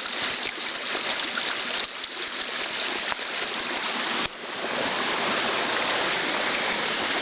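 Creek water rushing steadily, with a brief dip in level about four seconds in.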